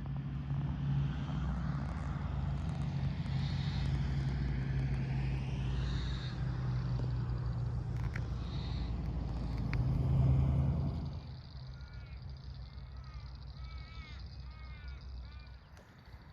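A steady low engine hum with road-like noise, building to its loudest about ten seconds in and then dropping away quickly. After that, birds call and chirp in a quieter outdoor background.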